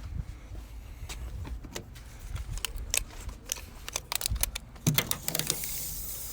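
Tape measure being pulled out and handled: a run of sharp metallic clicks and rattles, with a brief hissing rush near the end.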